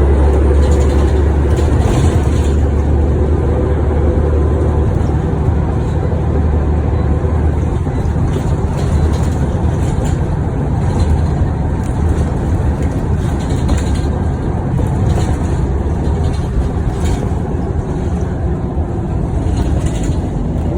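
Scania OmniCity single-deck bus's engine running under way, heard from inside the saloon: a steady deep rumble with light rattles over it.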